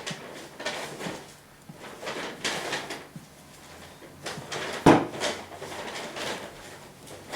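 Knife blade drawn in repeated sharpening strokes, a scraping swish roughly once a second, with a sharper knock about five seconds in.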